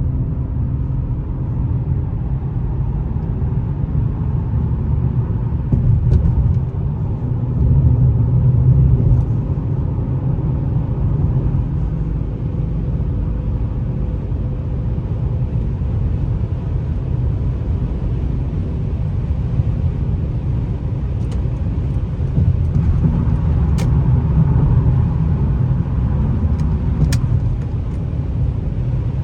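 2004 Lexus GS300's 3.0-litre straight-six running as the car is driven, a steady low rumble with road noise that grows louder twice.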